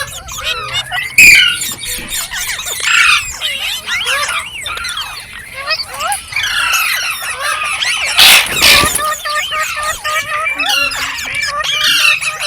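Several green parrots chattering at once: rapid, overlapping squeals and squawks that warble up and down in pitch, with one loud harsh screech about eight seconds in.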